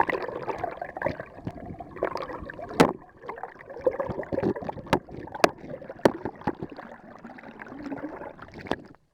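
Stream water gurgling and churning around a camera held in the water, the sound muffled and uneven, with several sharp clicks or knocks scattered through it. It cuts off suddenly just before the end.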